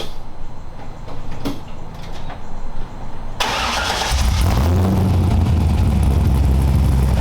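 A car engine starting: a few faint clicks, then the engine catches about three and a half seconds in and settles into a loud, steady low running note.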